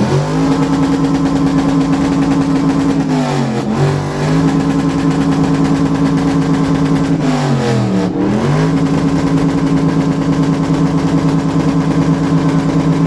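A car engine revved hard through a competition exhaust and held at high revs in long steady pulls. The revs drop and climb straight back twice, about three and a half and eight seconds in.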